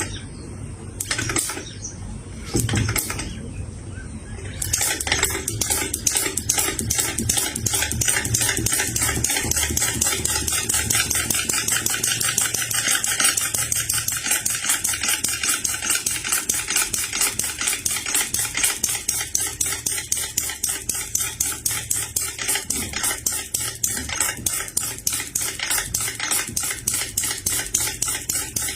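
Small-scale model of a horizontal water-cooled four-stroke hot-bulb engine, gasoline-fuelled: a few separate knocks, then about five seconds in it starts and runs with a fast, even metallic clatter.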